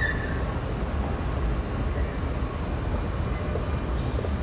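Dubai Metro train running, heard from inside the carriage: a steady low rumble of wheels and motors.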